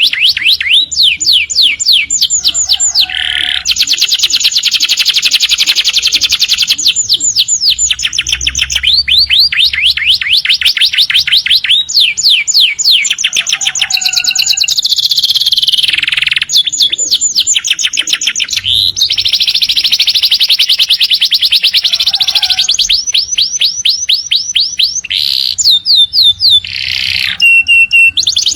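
Domestic canary singing a long, almost unbroken song of fast trills, rapid strings of short high notes that change phrase every second or two.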